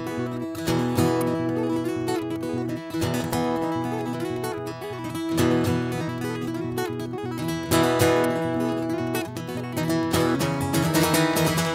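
Acoustic guitar strummed, chords ringing out, with a heavier strum about every two to two and a half seconds.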